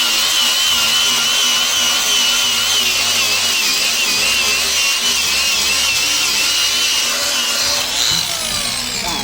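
Makita DGA404 18 V brushless cordless 100 mm angle grinder running at speed: a loud hiss with a high whine that wavers slightly, then falling in pitch near the end as the tool slows.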